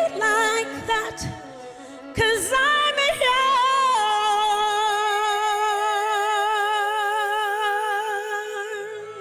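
Female singer with a powerful voice finishing a song: a quick run of ornamented notes in the first few seconds, then one long held note with wide vibrato for about five seconds, fading slightly near the end.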